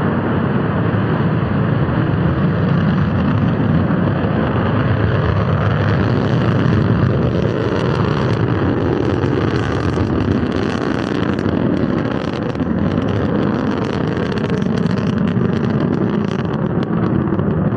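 Russian rocket's engines during launch: a loud, steady rumble with a faint crackle over it.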